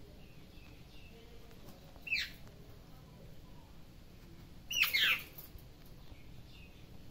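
A small caged bird chirping sharply: one short chirp about two seconds in, then a louder cluster of quick falling chirps about five seconds in.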